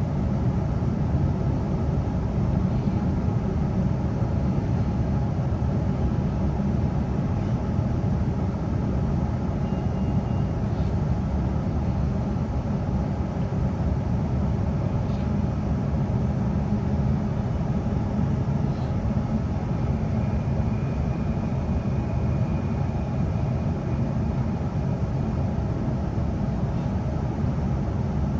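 Steady rumble of an NGR electric train running along the track, heard from inside the carriage, with a faint thin high tone for several seconds past the middle.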